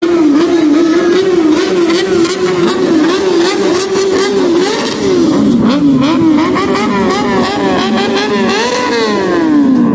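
Superbike engines running at high revs, more than one engine note overlapping and wavering up and down as the throttle is worked. Near the end one note sweeps steadily down in pitch.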